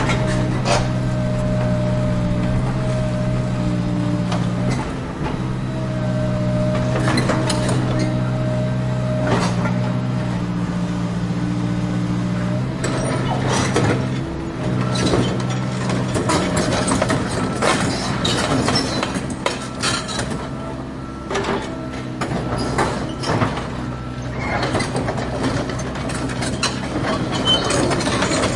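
Small electric gear motors of a radio-controlled toy excavator whining steadily, their pitch shifting every few seconds as the controls change, with clicks and knocks that grow more frequent in the second half.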